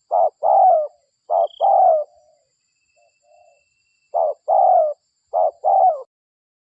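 Spotted dove (derkuku) cooing: a two-part phrase, a short note followed by a longer falling coo, repeated four times with a short pause in the middle. The calls stop about six seconds in.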